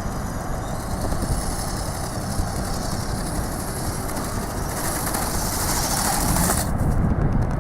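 Strong gusty wind buffeting the microphone, a rough steady rumble, with a high hiss that swells from about five seconds in.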